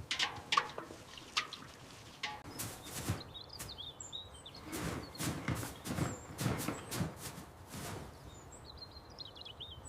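Birds chirping, once after about three and a half seconds and again near the end, over a run of irregular short noises in the middle of the stretch.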